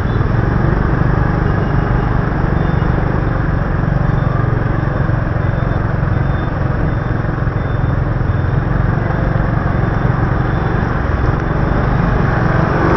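Motorbike underway: the engine running with steady, loud wind and road noise on the bike-mounted microphone.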